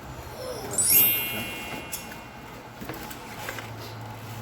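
A bright, high chime about a second in, sweeping up into a cluster of ringing tones that fade away over about a second, over a low steady hum.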